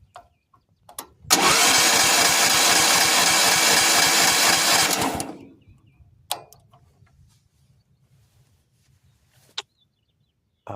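Sawmill's gasoline engine cranking on its starter with the choke on for about four seconds, then stopping without catching: the engine won't start. A few short clicks sound before and after.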